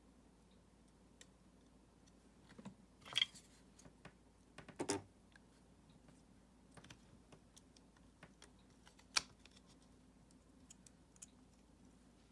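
Scattered light clicks with three louder short knocks, about three, five and nine seconds in: small parts and tools being handled during a cordless screwdriver battery pack repair.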